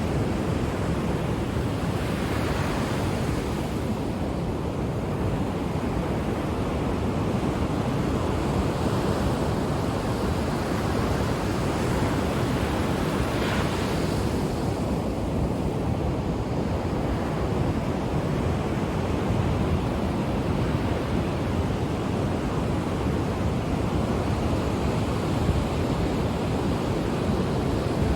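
Ocean waves breaking and washing on the shore, a steady surf rush with swells of hiss about two and thirteen seconds in, and some wind on the microphone.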